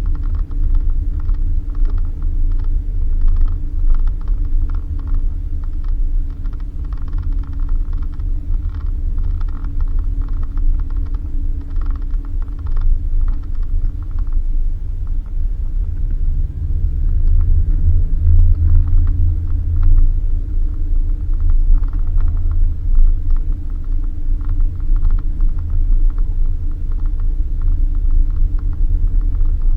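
Suzuki Jimny driving on a dirt road: a steady low rumble with the engine's drone, which swells for a few seconds in the middle, and frequent light rattles and knocks from the bumpy surface.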